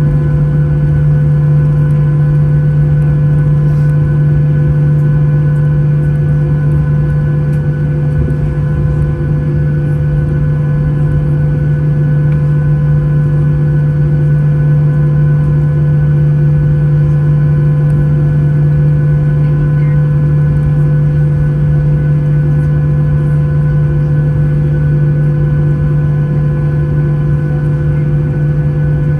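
Steady drone of a Boeing 737-800's CFM56 turbofan engines heard inside the passenger cabin: a constant loud, low hum with a few faint steady whining tones above it.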